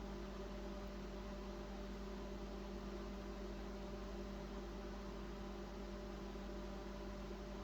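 Microwave oven running with a steady hum while it heats corn.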